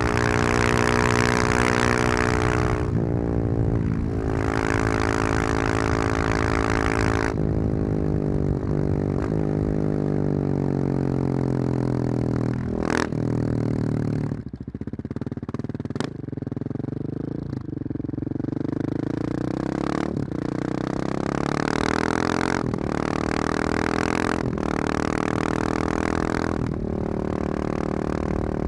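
Husqvarna 701's single-cylinder engine through a loud Wings aftermarket exhaust, under way. It pulls up through several gear changes, falls away on the overrun with a few sharp cracks, then accelerates through the gears again.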